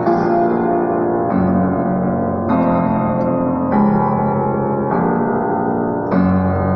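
Solo piano playing an improvised impressionist-style piece, with sustained chords changing about every second.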